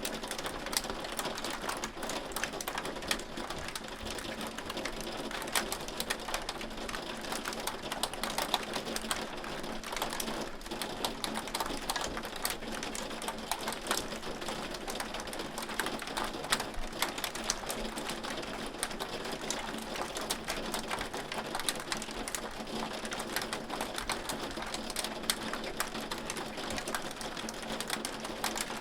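Hail falling and striking hard surfaces: a dense, steady patter of countless small ticks and clicks, with sharper single hits standing out here and there.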